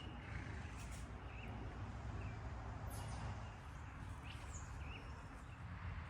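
Outdoor ambience of wild birds chirping a few short, faint calls over a low steady rumble.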